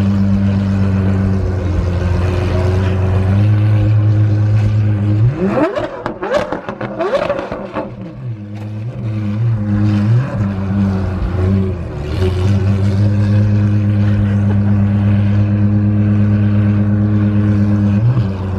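Car engine running with a steady drone, then a burst of hard acceleration about five seconds in, the revs climbing steeply for a couple of seconds before settling back to the steady drone.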